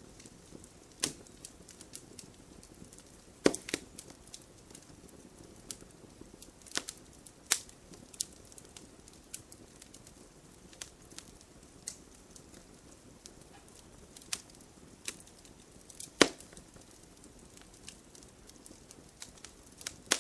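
Wood fire crackling: a low steady hiss with scattered sharp pops and snaps at irregular intervals, the loudest about three and a half seconds in and again near sixteen seconds.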